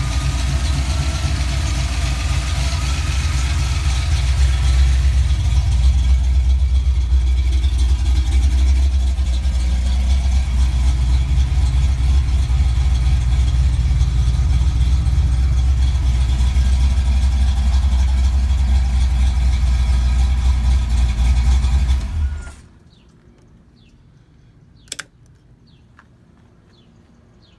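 Ford 5.0-litre (302) small-block V8 of a Fox-body Mustang idling steadily, then shut off about 22 seconds in. After that, a single sharp click near the end.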